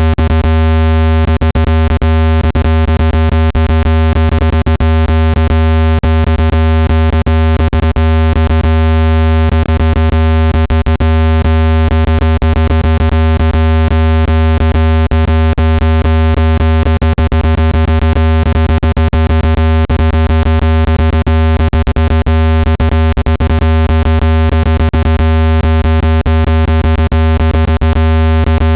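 Electronic speaker-cleaning tone for pushing water out of a phone speaker: a loud, steady, low-pitched hum with a stack of higher overtones, broken by frequent sharp clicks.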